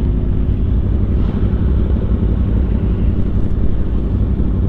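Sport motorcycle engine and exhaust running at a fairly steady speed while riding, heard from the rider's position.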